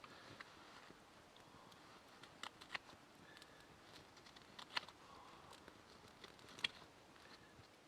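Faint, scattered sharp clicks and light taps, a few seconds apart, over quiet background hiss.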